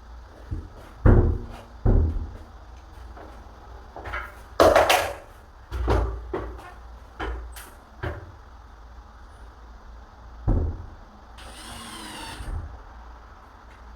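Door repair work on a wooden door and frame: a run of knocks and thumps, the loudest about a second in, near two seconds and just before five seconds, then a brief whirr of a power drill about eleven and a half seconds in.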